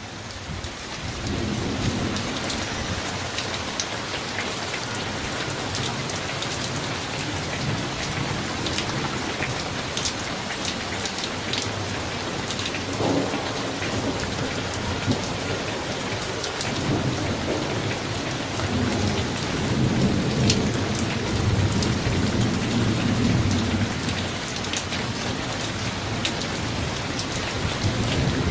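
Summer thunderstorm: steady heavy rain with many sharp drips, fading in over the first two seconds. Low rolling thunder swells several times, longest and strongest in the second half.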